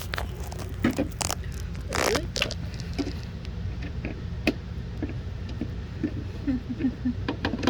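Plastic refrigerator shelf and its plastic supports scraping and clicking as they are worked into place, with a longer scrape about two seconds in and a string of small knocks, over a steady low hum.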